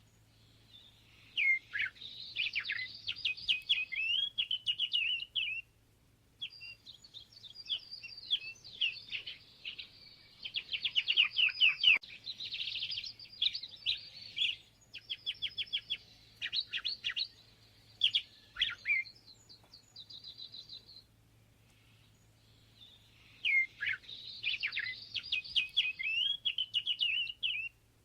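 A songbird singing long, jumbled, warbling phrases of rapid chirping notes, with short pauses between phrases; the same song phrase comes near the start and again near the end.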